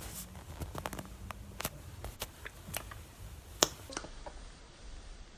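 Scattered light clicks and taps, with one sharper tap about three and a half seconds in, from hands handling a penguin squishy toy.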